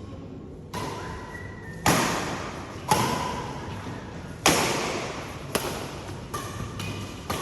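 Badminton rally: rackets striking the shuttlecock about six or seven times, roughly a second or so apart, each sharp hit echoing in a large hall.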